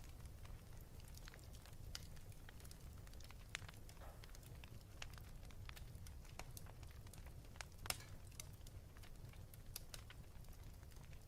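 Wood fire in a fireplace crackling faintly, with scattered small pops and two louder snaps, one about a third of the way in and one about two-thirds in, over a low steady rumble.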